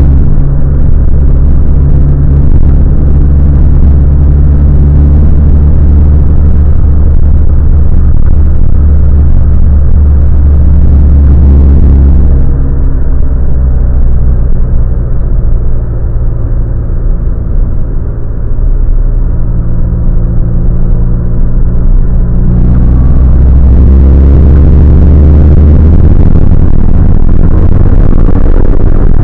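Renault Clio 182's 2.0-litre four-cylinder engine, heard loud from inside the cabin while lapping a race circuit, with tyre and wind noise. It eases off about twelve seconds in, as for a corner, and builds back up hard about ten seconds later.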